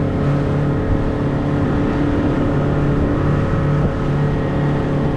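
Motorboat engine running steadily under way, a constant low drone with no change in speed.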